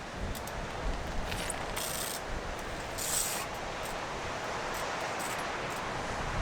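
Wind blowing over the microphone: a steady rushing noise with low rumbling buffets, and two brief hissing scrapes about two and three seconds in.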